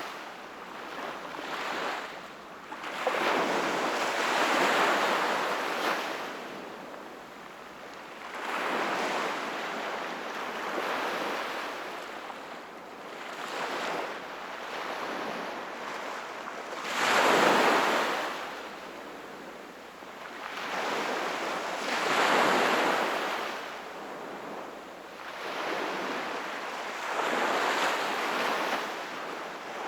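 Sea waves breaking and washing onto the shore, each surge swelling and fading every four to five seconds, the strongest about seventeen seconds in.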